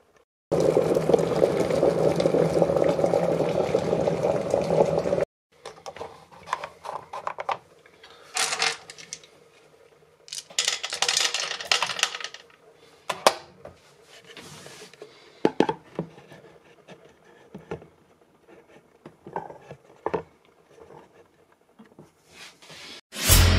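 Dragees (small hard sugar-coated sweets) and an electric kettle being handled: a steady rushing noise for about five seconds that cuts off abruptly, then scattered clicks, clinks and short bursts of clattering as the sweets and kettle are handled.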